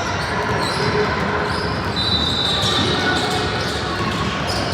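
Youth basketball game in a gym: a basketball bouncing on the court under steady crowd chatter that echoes in the hall, with a short high squeak, likely a shoe on the floor, about two seconds in.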